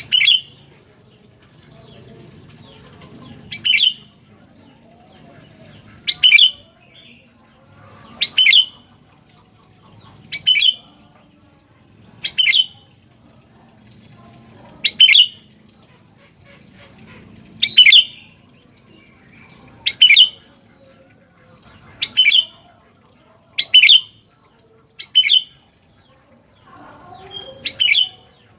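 Sooty-headed bulbul (kutilang) giving short, sharp calls, each about two notes, repeated roughly every two seconds, thirteen in all.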